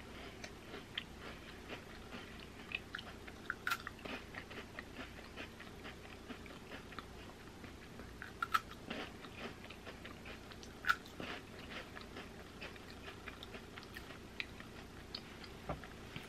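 A person biting into and chewing a crisp, hollow wafer roll with a matcha chocolate filling. Small crunches and chewing run throughout, with a few louder crisp snaps about 4, 8 and 11 seconds in.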